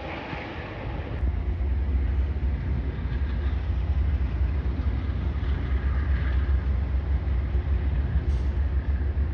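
Train running past on the tracks: a heavy low rumble that comes up about a second in and then holds steady.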